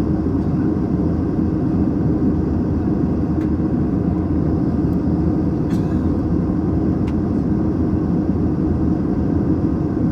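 Steady cabin noise inside an Airbus A321: the even roar of the jet engines and airflow, with a constant low hum and a few faint clicks.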